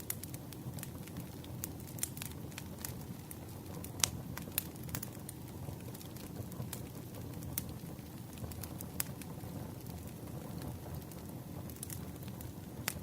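Campfire crackling: a steady low rumble of burning wood with irregular sharp pops and snaps, the loudest about four seconds in.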